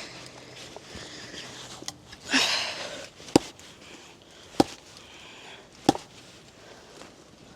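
An axe striking a log three times, sharp blows about a second and a quarter apart, after a brief scraping rustle just before the first strike.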